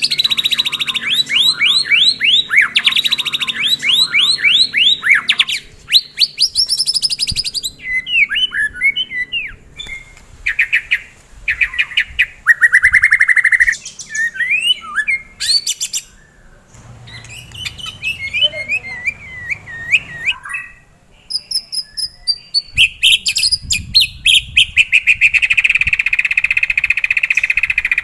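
White-rumped shama (murai batu) in full song: loud, fast phrases of rapidly repeated notes and trills, the rapid-fire 'tembakan' that bird keepers prize, broken by short pauses between phrases.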